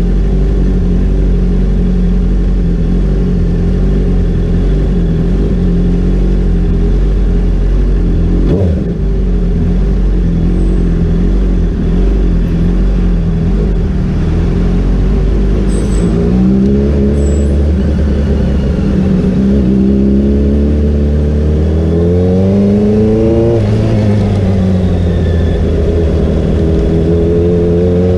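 Honda CBR 650R's inline-four engine running at a steady speed, then revving up in rising sweeps from a little past halfway, dropping back once and climbing again near the end.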